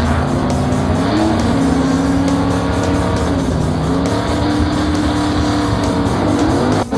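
Cartoon vehicle engine sound effect, its pitch rising and falling, over background music.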